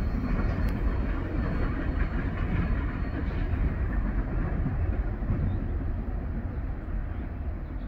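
Rolling rumble of a Norfolk Southern coal train's hopper cars moving away along the track, slowly fading as the end of the train recedes.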